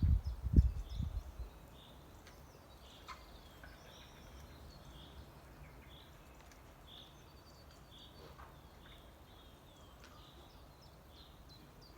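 A burst of low rumbling noise on the microphone for the first second or so, then faint outdoor birdsong: a bird repeating a short call about once or twice a second, with other high chirps and a few small clicks.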